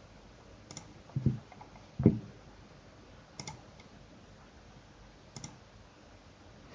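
About five sparse, quiet clicks from a computer mouse and keyboard, spread over several seconds; the second and third are louder and duller than the rest.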